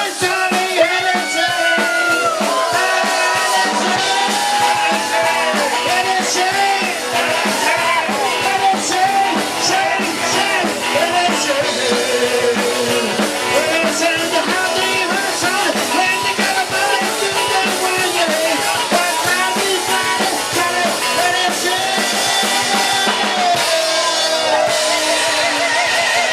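Live rock and roll band playing at full volume, with drum kit and guitar.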